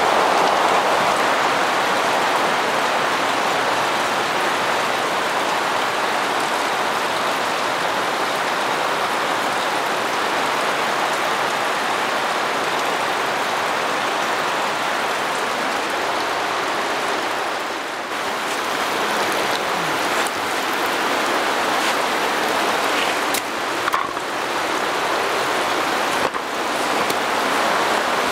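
Torrential rain from a sudden cloudburst: a steady, dense hiss of heavy rainfall, with a few faint clicks in the last ten seconds.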